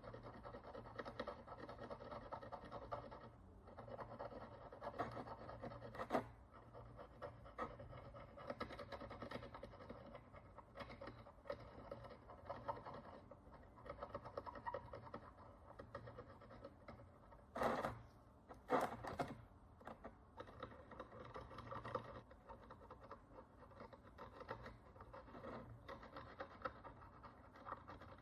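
A hand tool scraping dirt and oxidation crust off a bronze Roman follis: a continuous run of fine, quick scratching strokes, with two louder scrapes about two-thirds of the way in.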